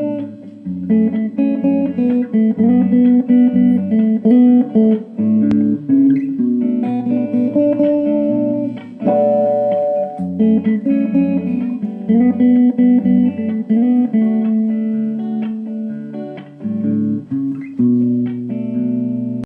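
Guitar playing the instrumental intro of a sertanejo song: a plucked melody over low bass notes, stopping abruptly at the end.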